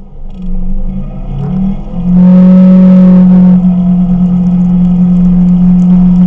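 Kawasaki Teryx KRX 1000 side-by-side's parallel-twin engine pulling under throttle: its pitch climbs about two seconds in, then holds steady and loud. A rush of hiss rides over it for a second or so just after the climb.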